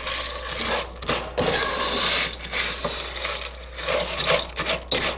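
Crisp chow mein noodles being stirred into melted chocolate in a pot: an irregular crunching, scraping rustle.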